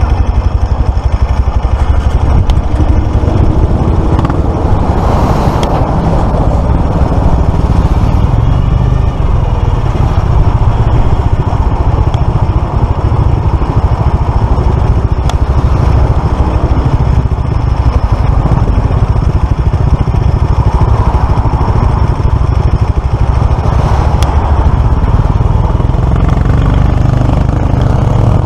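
Motorcycle engine running steadily at road speed, with wind rushing over the microphone; right at the end the engine note starts to rise as it accelerates.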